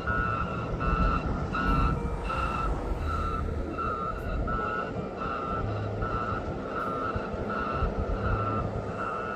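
Warning beeper sounding steady, evenly spaced beeps, about three every two seconds, over the low rumble of a diesel engine.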